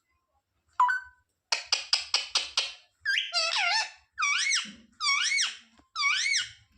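Pet parrot calling: a quick run of about six harsh squawks, then four longer squeaky calls, each rising and falling in pitch.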